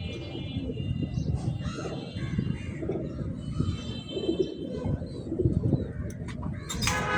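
Domestic pigeons cooing in repeated low pulses, with some higher-pitched calls mixed in.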